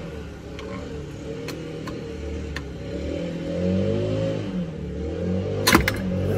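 A car engine running, its pitch dropping and rising again, with a sharp knock near the end.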